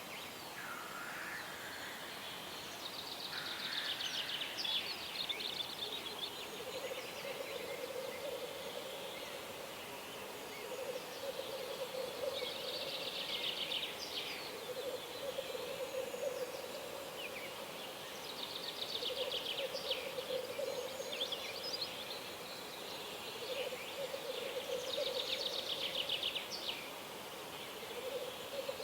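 Birds singing: trilling song phrases come again every several seconds, over a lower hooting call that repeats every few seconds.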